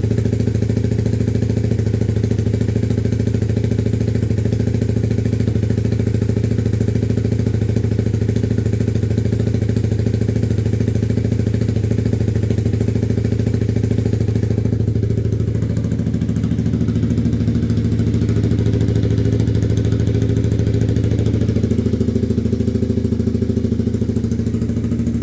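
Motorcycle engine idling steadily after a cold start. Its note shifts slightly about two-thirds of the way through.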